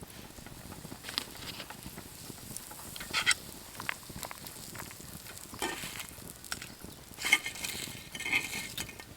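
Gopchang and makchang sizzling on a grill over a campfire, with scattered clinks and scrapes of cooking utensils; the sharpest clinks come a few seconds in and again later.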